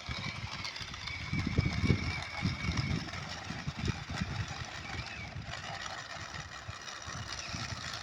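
Remote-control monster truck's small electric motor whining as the truck drives over dusty sand, with irregular low rumbling.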